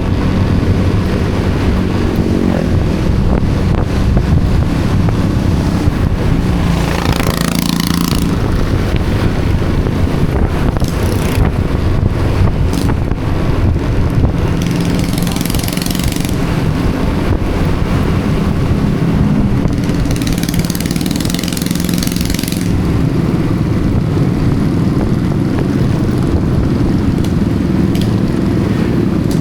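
Motorcycle engine running steadily while riding, its pitch shifting as it speeds up and slows down. Three louder rushes of noise, each a second or two long, come and go over it.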